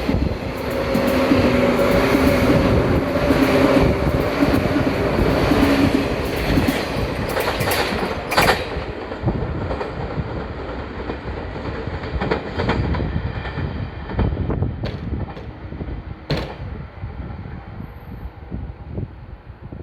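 A 185 series electric express train passing through a station at speed. Its running noise is loud for the first several seconds, with a steady hum, then fades as it moves away, with a few sharp clacks from wheels over rail joints along the way.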